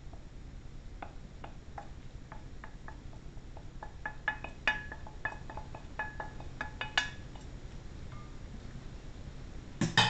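A cooking utensil clinking and tapping against cookware: about a dozen light strikes over several seconds, several ringing briefly, over a steady low hum. A louder clatter starts just before the end.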